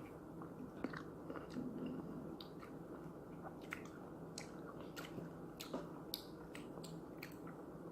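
Someone chewing grapes close to the microphone: faint, wet mouth clicks and smacks come at an irregular pace.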